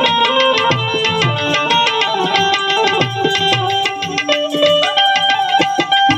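Instrumental music of a Gujarati devotional song: tabla playing a steady, busy rhythm with deep bass strokes, under a melody instrument holding and changing notes.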